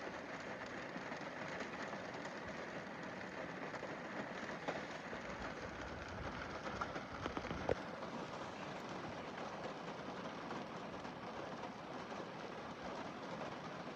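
Rain falling on a car windscreen: a steady patter with scattered single drops, one sharper drop hitting a little after halfway.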